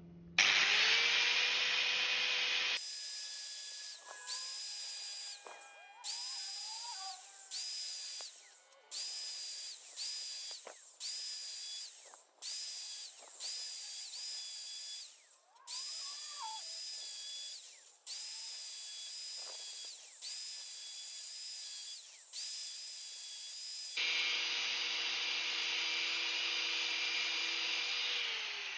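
Electric grinder spinning up, then grinding down the teeth of a skip-tooth saw chain in a series of short passes a second or two long, each breaking off abruptly. Near the end it runs free and then winds down with a falling whine.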